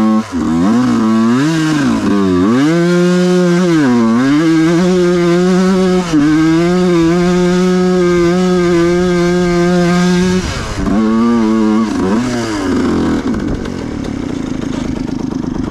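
Two-stroke dirt bike engine revving up and down in quick blips, then held high and steady for about six seconds as it climbs a steep hill in second gear, wheelieing. About ten seconds in the throttle is chopped, followed by a few short blips and the engine running low.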